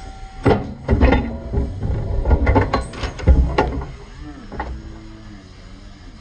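Irregular knocks and clatter, as of metal parts being handled, for about three seconds, then dying down to a faint low hum.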